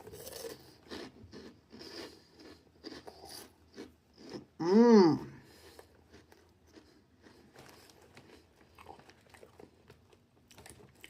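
A person biting and chewing crunchy Hot Cheetos: a run of crisp crunches and crackles close to the mouth. About halfway through comes one short hummed 'mm' that rises and falls, the loudest sound here.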